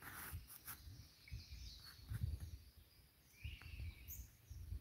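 Faint woodland ambience: a few short bird chirps, clearest about three and a half seconds in, over an intermittent low rumble on the microphone and a few soft clicks.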